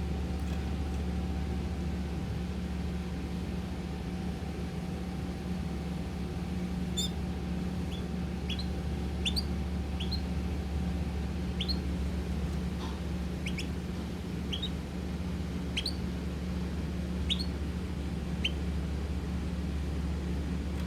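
Pet birds giving short, sharp, rising chirps, about one a second, starting about a third of the way in, over a steady low hum.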